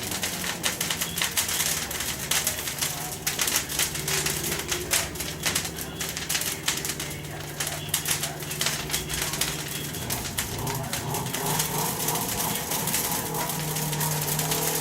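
Bonfire crackling: dense, irregular snaps and pops, over a steady low hum.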